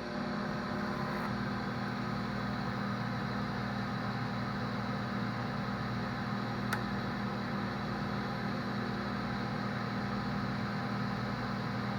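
Microwave oven running: a steady electrical hum with the whir of its fan, holding even throughout, with one faint tick about seven seconds in.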